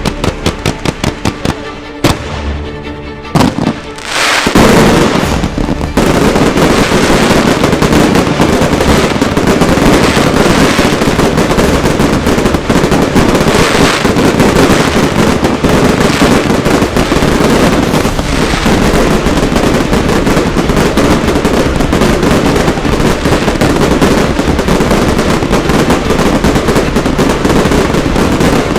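Music with a regular beat for the first few seconds, then from about four seconds in a dense, unbroken barrage of firework and firecracker bangs.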